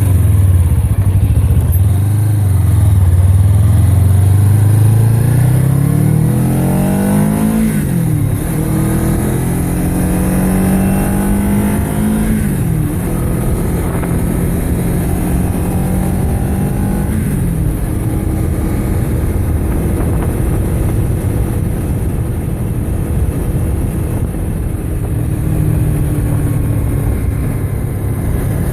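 Motorcycle engine accelerating through the gears. Its pitch climbs steadily, then drops sharply at gear changes about 8, 12 and 17 seconds in, and it settles to a steady cruise, with wind noise over it.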